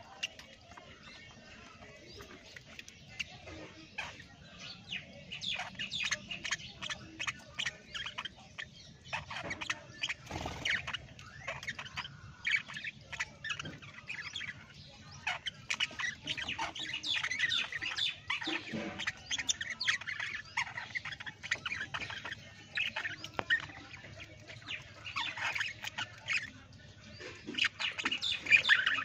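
Parrots squawking and chirping: many short, overlapping calls, sparse at first and busier from about five seconds in.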